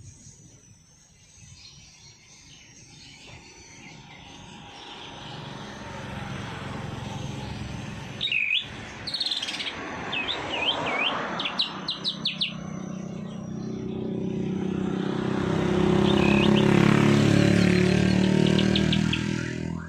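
A songbird giving sharp upswept chirps and quick trills, in a run about eight seconds in and again briefly near the end. Under it a low rumble swells slowly, is loudest near the end, then drops away.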